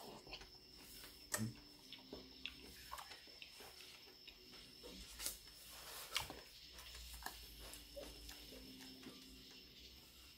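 Faint chewing and scattered mouth clicks from a man eating a whole fresh fig, with a few small clicks spread through the quiet.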